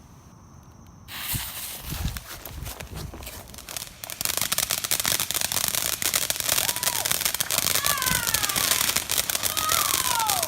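Ground fireworks going off: a hiss starts about a second in, then from about four seconds a loud, dense run of rapid crackling pops like a string of firecrackers. A few falling whistle-like tones sound over the crackle near the end.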